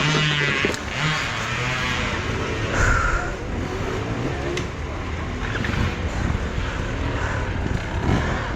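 Enduro motorcycle engine running, its revs rising and falling unevenly.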